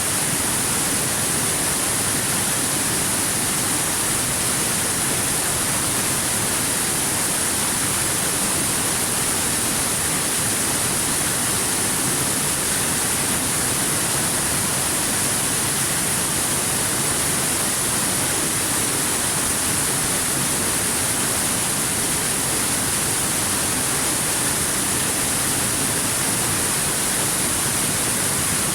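Waterfall running steadily: an even, unbroken rush of falling water with a strong high hiss.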